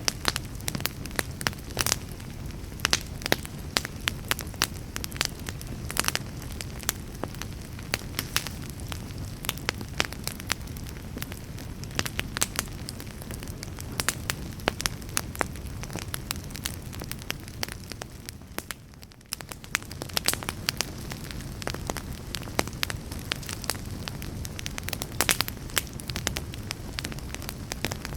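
Wood fire burning in a fireplace: frequent sharp crackles and pops of the logs over a steady low rush of the flames, with a brief lull about two-thirds of the way through.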